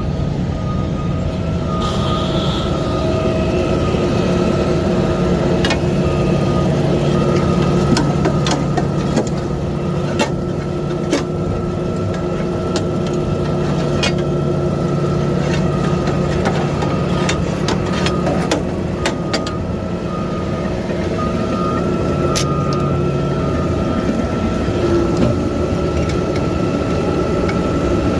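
A garbage truck's engine runs steadily. A high beeping tone cuts in and out, with scattered clanks and knocks.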